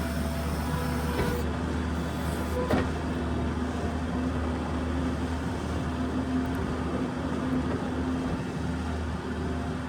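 New Holland skid steer's diesel engine running steadily under work, with two short knocks about one and three seconds in.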